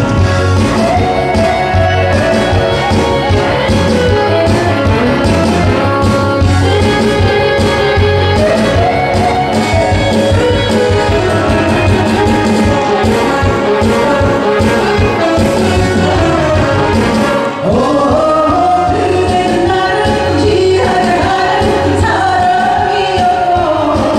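Korean trot song sung live by a solo singer over a loud backing track with a steady beat.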